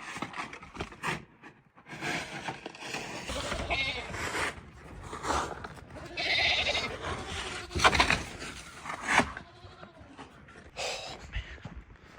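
Farm livestock bleating, several separate calls a second or two apart, the longest about a second in length, about halfway through.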